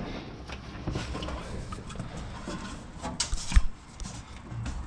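Light knocks and rustling from someone shifting about inside a car body shell, with a cluster of louder knocks about three and a half seconds in.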